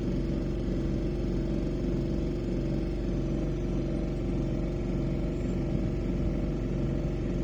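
A small sailboat's outboard motor running steadily at low speed, pushing the boat under engine power with the sails down. It is a constant low drone with an even hum that does not change.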